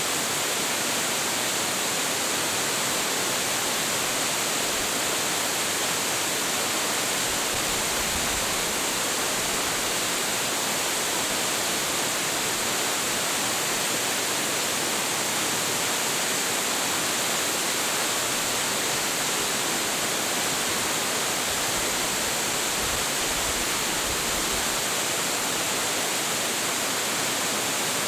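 Large waterfall pouring steadily, a constant dense rush of falling water with most of its energy in the upper range.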